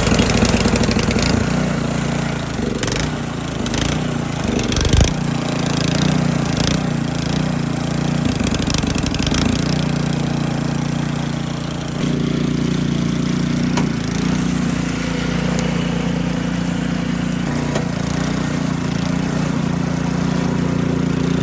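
SnoTek by Ariens snowblower's small single-cylinder engine running steadily after catching, now that its carburetor has been cleaned to cure a fuel delivery problem. A few knocks and rattles sound over it in the first ten seconds, and its tone changes slightly about twelve seconds in.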